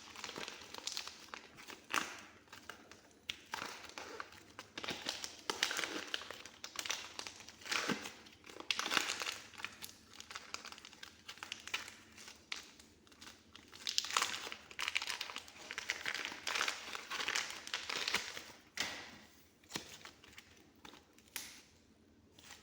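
Soft modelling clay being pressed, squeezed and stretched by hand close to the microphone. It comes in uneven bursts of crackly noise a second or two long, with short sharp clicks among them.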